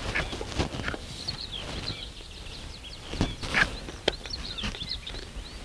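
Small birds chirping and singing in short, quick calls throughout. A few close rustles come a little past halfway, followed by a sharp click.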